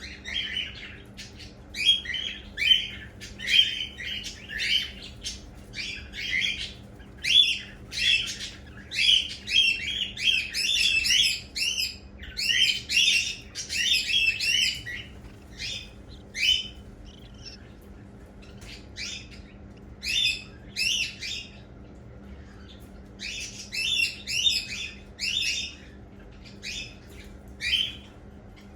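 Cockatiel chicks chirping: a string of short, repeated calls in bouts, with a couple of brief pauses before the calling picks up again.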